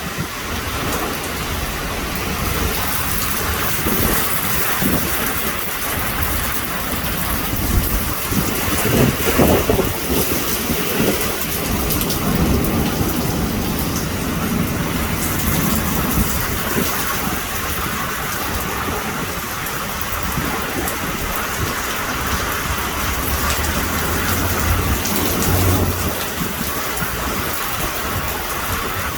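Heavy rain pouring steadily in a severe thunderstorm, with low rumbles of thunder swelling through the middle.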